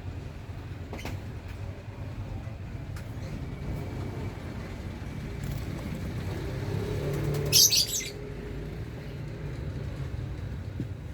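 Lovebirds in a colony breeding cage, with a short, loud, harsh burst of high calls about two-thirds of the way through, over a steady low rumble.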